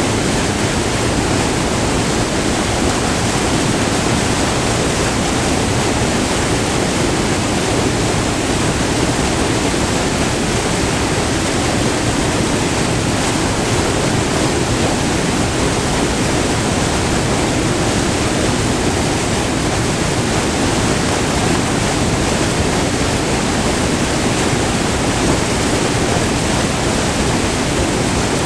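Close-up white water of a short multi-tiered river waterfall, rushing loud and steady without a break.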